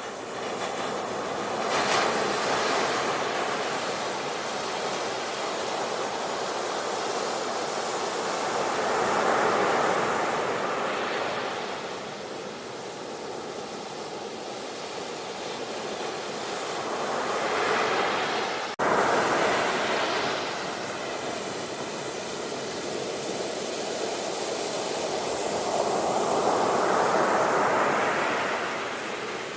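Sea waves breaking and washing ashore, the surf rising and falling in slow swells every several seconds. About two-thirds of the way through, the sound breaks off for an instant and resumes abruptly louder.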